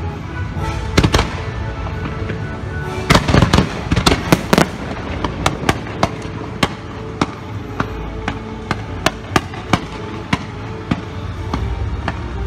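Fireworks display: a dense cluster of loud bangs about three seconds in, then a run of sharp single pops two to three a second to the end, over the show's music.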